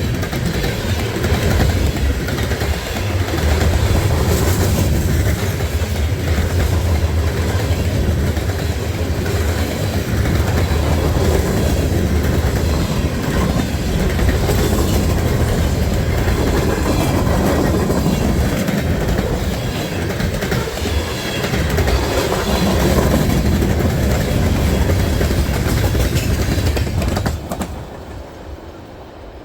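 Freight train cars rolling past close by, the wheels clacking over the rail joints with a steady heavy rumble. The sound drops away sharply near the end.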